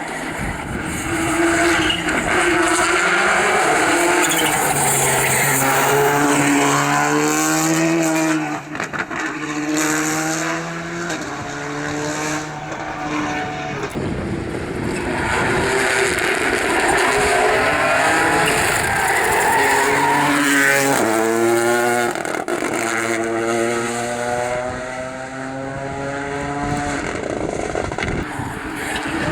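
Rally cars driven flat out: engines revving hard, their pitch climbing and dropping in steps with quick gear changes, with some tyre noise. This happens twice, once through the first half and again in the second half.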